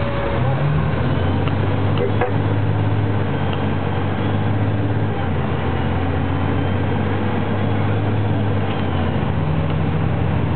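Fire engine under way, its engine running steadily with the engine note stepping up and down a few times; one sharp click about two seconds in.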